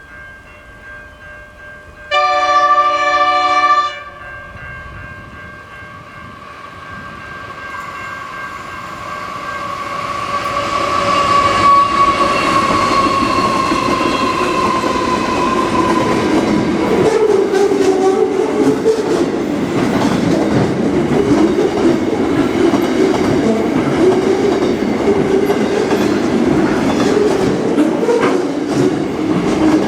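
Train horn sounding one loud blast of nearly two seconds about two seconds in, then a train drawing near and passing: the sound builds steadily, a tone slides down in pitch, and loud wheel clatter over the rails takes over for the rest.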